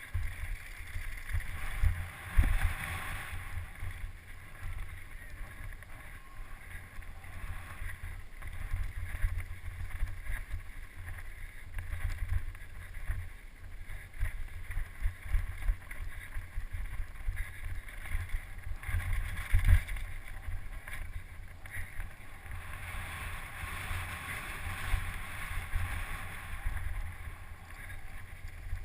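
Wind buffeting a moving camera's microphone during a fast mountain bike downhill run, with a steady rushing of air and tyres on the trail and a couple of louder knocks, about two and a half seconds in and again near twenty seconds.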